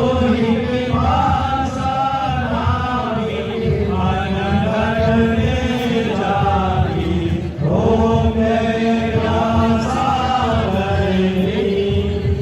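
Chanting voices in long, held melodic phrases that go on without a break for most of the time, pausing briefly about two-thirds of the way through.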